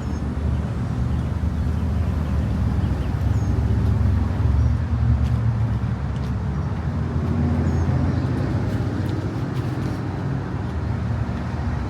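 Steady low drone of a car driving: engine hum and road noise at a constant pace.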